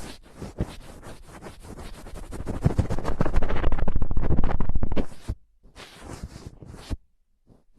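Close-up scratching and crackling, a dense run of small clicks that grows louder in the middle, then stops twice briefly near the end.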